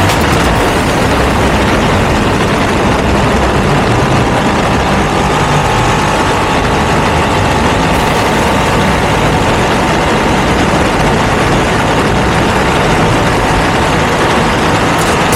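Ducati V2 twin-cylinder engine running steadily through a Termignoni exhaust.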